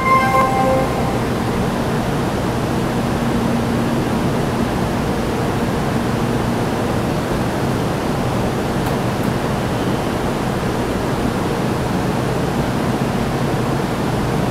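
Steady rushing hum beside a Taiwan High Speed Rail 700T trainset standing at an underground platform with its doors open, from the train's air-conditioning and the station's ventilation. The last notes of a platform chime fade in the first second.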